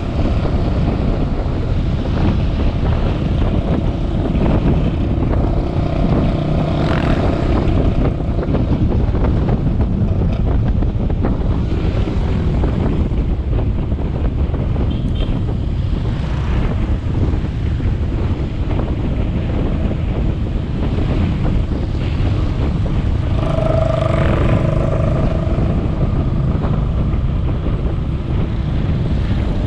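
Motorbike engine running at road speed with wind rushing over the action-camera microphone, steady throughout. Near the end a pitched tone sounds for about two seconds over it.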